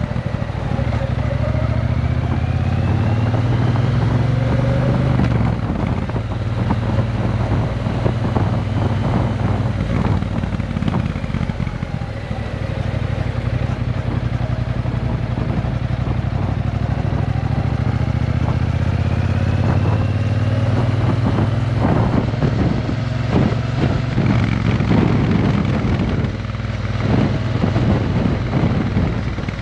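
Triumph Bonneville T120's 1200 cc parallel-twin engine running through a Vance and Hines exhaust, the exhaust note rising and falling several times.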